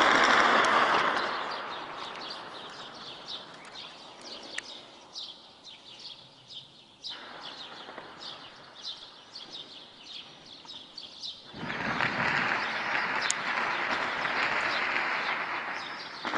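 Birds chirping repeatedly over a rushing background noise that is loud at the start, fades over the first two seconds and swells again about twelve seconds in. A few sharp cracks stand out, one about four and a half seconds in and another near thirteen seconds.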